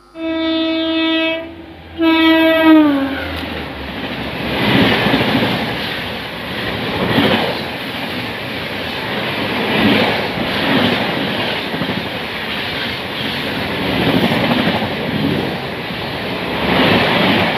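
Indian Railways train horn sounding twice, a steady blast of about a second and then a shorter one that sags in pitch as it stops: the departure signal. Then the train runs on the rails, a steady rumble with a clatter of wheels that swells every couple of seconds.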